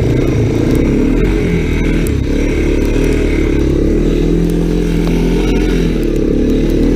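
Dirt bike engine running steadily under throttle while riding through snow, its pitch rising and falling a little, with a few scattered clicks.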